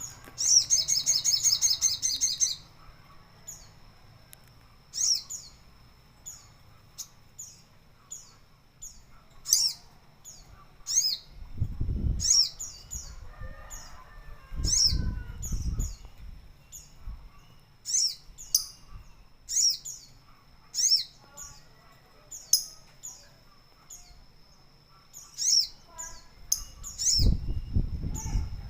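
Sogon songbird calling: a loud, fast trill at the start, then short high chirps repeated every second or so. A few times low fluttering bursts come through, the bird flapping its wings as it bathes.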